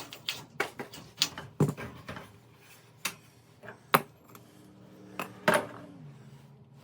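Scattered metallic clinks and knocks of garage door torsion-spring hardware being worked along its steel axle, irregular, with the sharpest knocks about four and five and a half seconds in.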